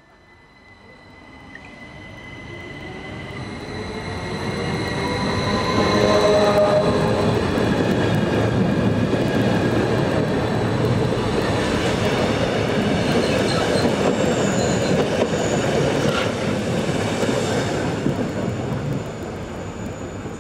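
Rhaetian Railway electric train rolling past close along the platform. The rumble of the wheels builds over about six seconds, stays loud, and fades near the end, with high steady squealing from the wheels on the rails.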